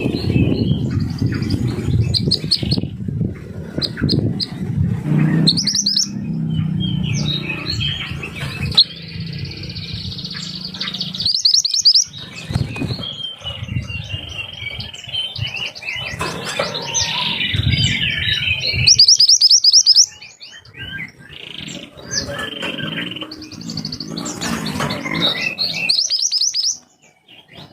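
Songbird singing a fast stream of sharp, high chirps and trills, over a steady low rumble that stops about two-thirds of the way through.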